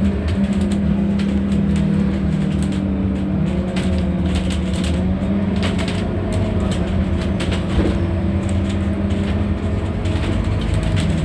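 Scania N230UD double-decker bus's five-cylinder diesel engine running steadily under way, with scattered short clicks and rattles.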